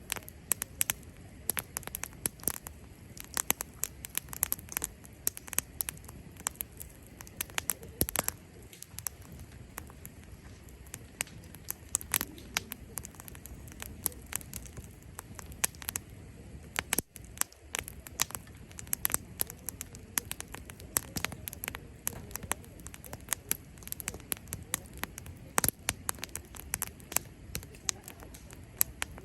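Cherry-wood campfire burning, with irregular sharp crackles and pops from the burning logs over a soft steady hiss.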